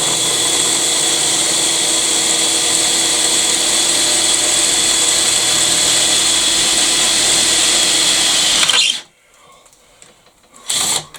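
Power drill running steadily at constant speed for about nine seconds, then stopping suddenly, with another brief burst from it near the end.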